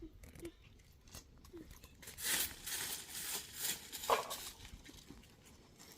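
Rustling, crinkling noise with crackles, lasting about two seconds from about two seconds in, with a few faint clicks before it and a short pitched sound near the end of it.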